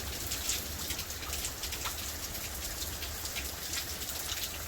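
Steady rain falling, with many individual drops ticking on a hard surface close by.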